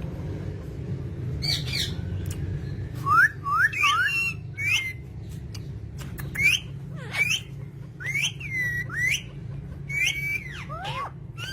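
Parrots squawking in a quick series of short, sharp calls that start about a second and a half in, over a steady low hum.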